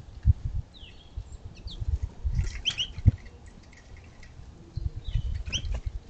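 Small songbirds giving short high chirps and down-slurred call notes several times, over frequent low taps and knocks as birds land and move on a caged tube seed feeder. The loudest sounds are two knocks, about a quarter second and three seconds in.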